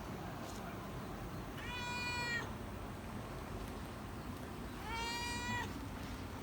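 A domestic cat meowing twice, two separate calls of just under a second each, about three seconds apart.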